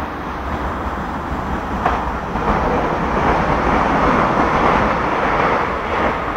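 Passenger train running on a far track, a steady rumble of wheels and motors that swells about halfway through and eases off near the end.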